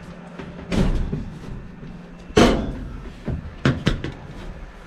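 Several clunks and knocks of sheet metal being handled and fitted, with the loudest about two and a half seconds in and two quick ones near the end.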